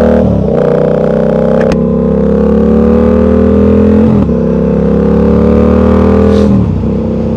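Motorcycle engine pulling up through the gears. Its pitch climbs steadily, with brief breaks for upshifts about four seconds in and again near the end, after which it holds at a steadier, lower pitch.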